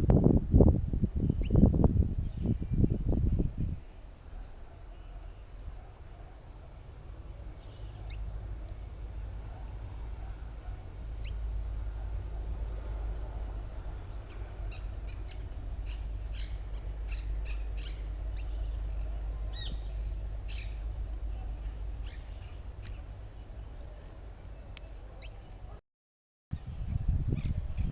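Scattered short, high chirps of saffron finches over a low rumble, with a steady thin high-pitched tone throughout. Loud low-pitched buffeting noise fills the first four seconds.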